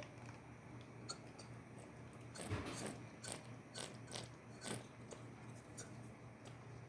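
Pet parrot chewing, its beak making scattered faint sharp clicks and crunches, busiest in the middle.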